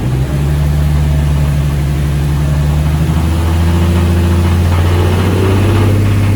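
Nissan VQ35DE V6 engine running and being revved, its speed rising slowly in the second half. It has a knock from the bottom end that the owner takes for a spun rod bearing, with oil pressure down to about 12 psi.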